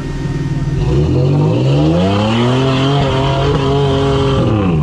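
An off-road rig's engine revving up about a second in, held at high revs for about two seconds, then dropping back near the end.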